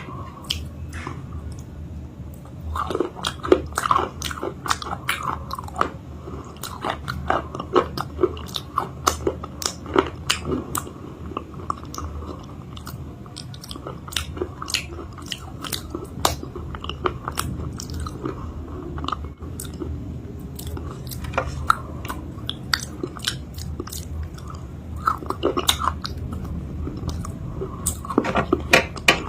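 Close-up biting and chewing of a homemade chalk-paste cake, with sharp, irregular crunches and soft wet chewing between them. The paste was made to be crunchy but has partly softened from the water left in it. A low steady hum runs underneath.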